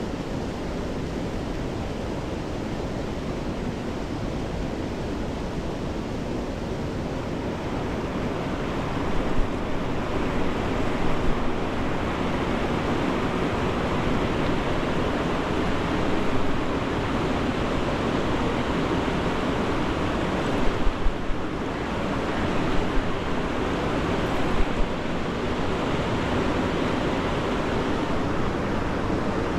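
Steady rush of flowing river water, a noisy hiss that swells louder about eight seconds in, with a few short louder bumps scattered through it.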